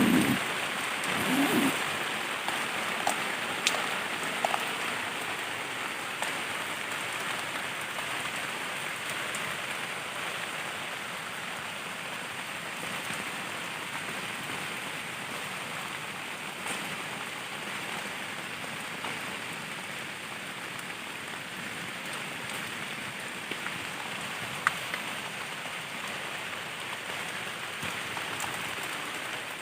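Heavy rain pattering steadily on a dome tent's fabric, an even hiss with a few sharper drop ticks. There is a brief low thud about a second and a half in.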